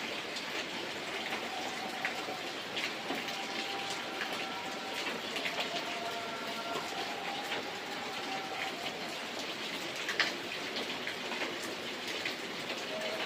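Steady rain, a dense even hiss with many individual drop ticks scattered through it. A few faint held tones run underneath.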